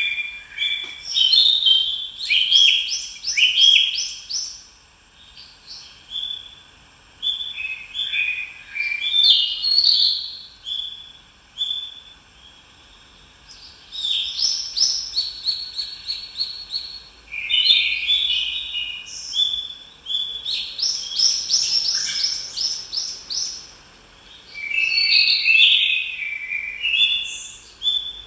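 Songbirds singing: phrases of quick high chirps, stepped notes and trills lasting a few seconds each, with short pauses between them.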